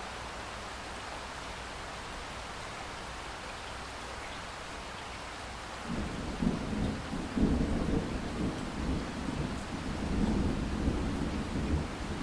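Steady rain hiss. About halfway through, a low rolling rumble of thunder comes in suddenly and keeps going, swelling and fading, over the rain.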